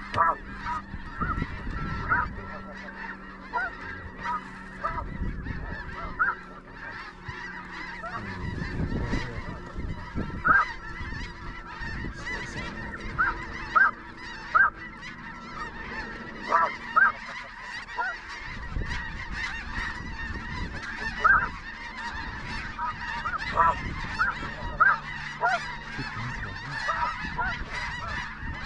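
A flock of snow geese calling: many sharp, high honks over a steady background chorus of more birds.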